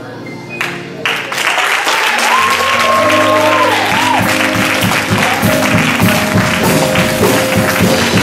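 Audience applause breaking out about a second in over music; another track with a steady beat comes in a couple of seconds later.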